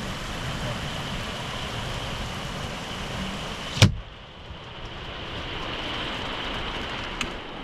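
A steady rushing noise, with one sharp knock about four seconds in and a fainter click near the end.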